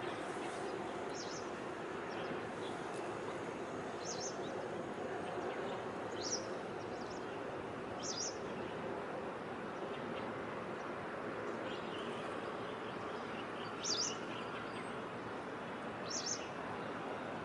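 A bird chirping, about six short high chirps spaced a couple of seconds apart, over a steady outdoor background noise.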